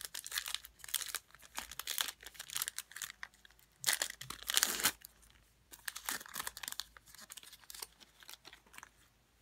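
Crinkling and rustling of trading-card packaging and cards being handled, in irregular bursts with the loudest about four to five seconds in.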